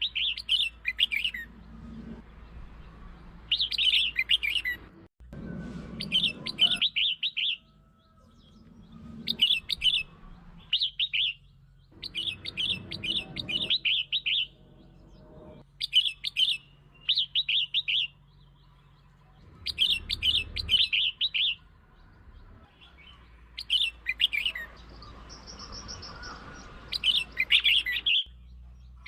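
Red-whiskered bulbul song: short bursts of quick, chirping phrases repeated every second or two, played as a lure call to provoke other bulbuls.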